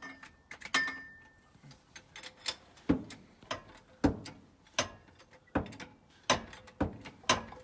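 Hydraulic jack under the engine being pumped to raise it slightly, a sharp metallic click with each stroke, about one a second.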